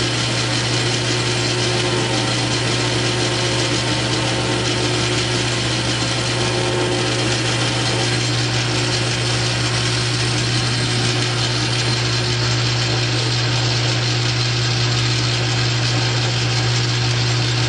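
South Bend 9-inch metal lathe running steadily through a cut under power feed: a constant low hum with an even hiss of cutting noise over it.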